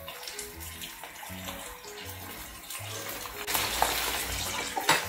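Shrimp and garlic sizzling in olive oil in a frying pan, the hiss swelling about three and a half seconds in, over soft background music.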